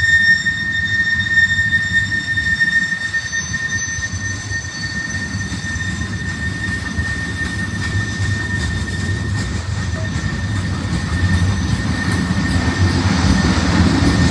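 Freight train rolling past with a steady high-pitched wheel squeal that fades out over the first half, over a low rumble that grows louder toward the end.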